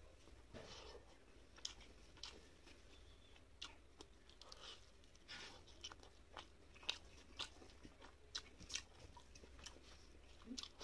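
Quiet, close-miked chewing of a mouthful of rice and fish curry, with scattered short clicks from the mouth.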